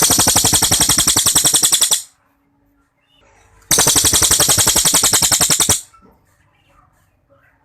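A cililin songbird giving its rapid machine-gun-like trill, the 'tembakan' or shot that bird keepers prize. There are two loud rattling bursts of about two seconds each, roughly fourteen notes a second, with a short pause between them.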